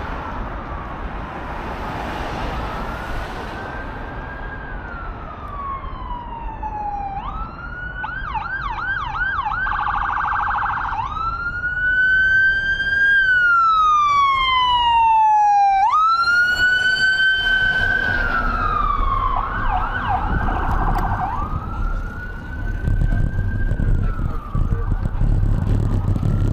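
Emergency vehicle siren alternating a slow rising-and-falling wail with two stretches of rapid yelp, growing louder partway through, over low traffic rumble.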